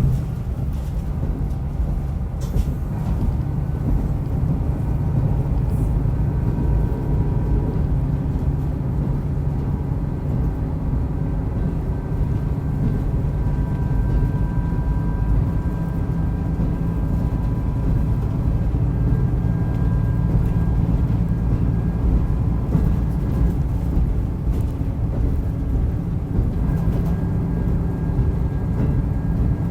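Diesel railcar running steadily along the line, heard from inside the car: a constant low engine and wheel-on-rail drone with a faint thin whine over it.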